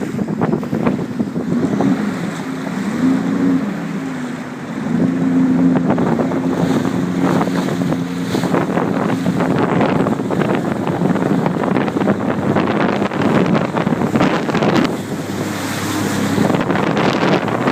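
Jet ski engine running, its hum rising and falling in pitch for the first few seconds and then holding steady, with water rushing and wind buffeting the microphone.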